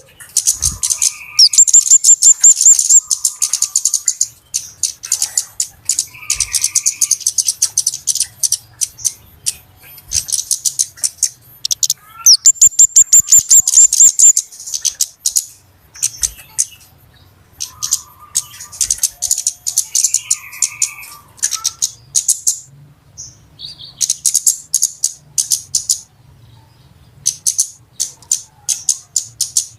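Flowerpeckers (kemade / cabe-cabean) calling busily in a bird-lure recording: rapid, sharp, high-pitched ticking calls and fast trills in repeated bursts of a second or two, with brief pauses between. Lower, softer chirps come in now and then.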